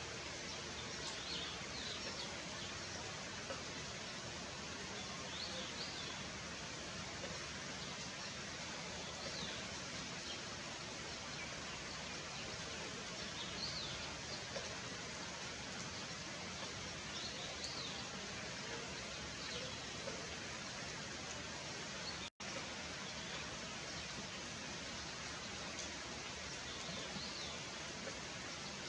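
Steady rain hiss, even and unbroken, with faint short bird chirps every few seconds. The sound drops out for an instant about two-thirds of the way through.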